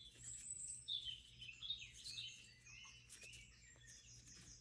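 Small birds chirping faintly, a string of short, high calls that glide up and down in pitch.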